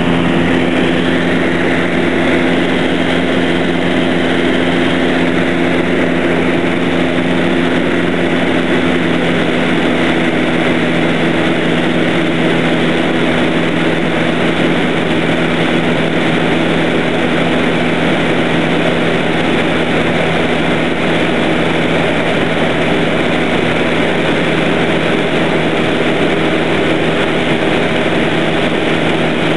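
Light aircraft's piston engine and propeller drone heard from inside the cabin in steady cruise, an even, unchanging hum with no variation in power.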